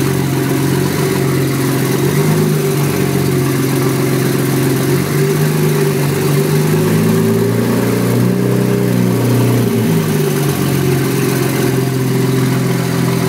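Nissan RB26DETT twin-turbo straight-six running on a freshly installed Spitronics aftermarket engine management system. It idles, its revs climb slowly over several seconds, then drop back to idle about ten seconds in.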